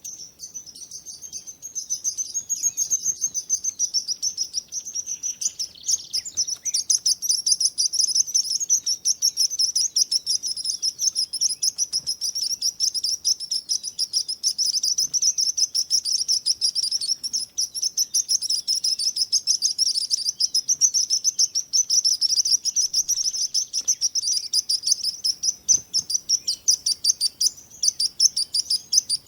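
Small birds chirping in a rapid, continuous high-pitched chatter that grows louder about two seconds in.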